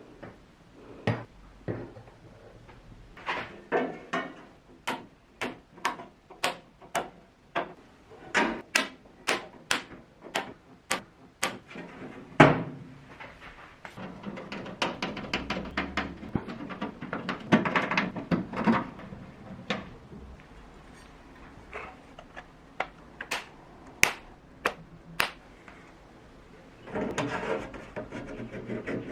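Workshop handwork on small parts: a long run of sharp, irregular taps and clicks, with stretches of scraping or rubbing in the middle and near the end.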